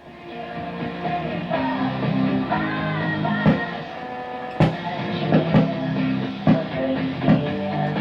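Rock music with guitar and drums playing from a Zenith 8-S-359 tube radio's speaker, fading up over the first second or so as the set comes in; the radio works after repair.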